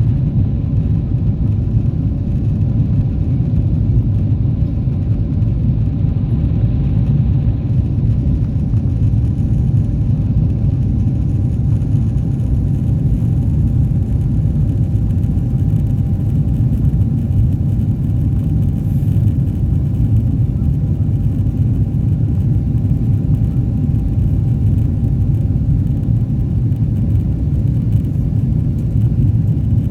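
Cabin noise of a Boeing 777-300ER airliner with GE90 turbofan engines: a loud, steady low rumble with a faint steady whine above it.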